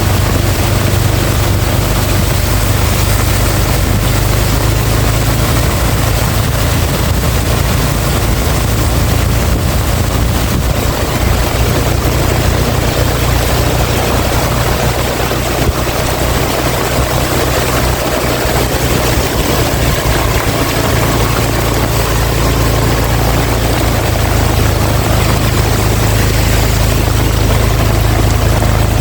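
Heavy rain falling steadily in strong wind, an even hiss over a deep, unbroken low rumble.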